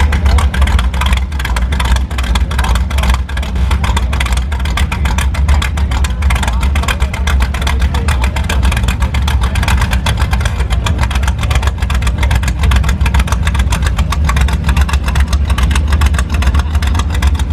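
A car engine running steadily close by, a constant low rumble with a fast, even pulse.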